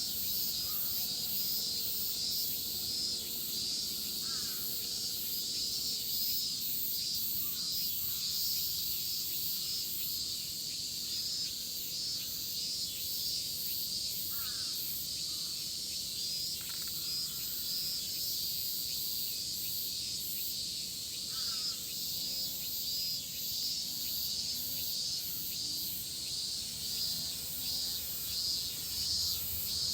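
Dense chorus of midsummer cicadas shrilling steadily. A few short, faint chirps sound over it now and then.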